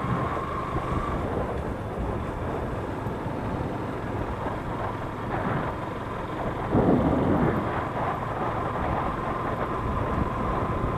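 Wind rumbling on the microphone of a moving motorcycle, over its running engine and road noise. It swells briefly about seven seconds in.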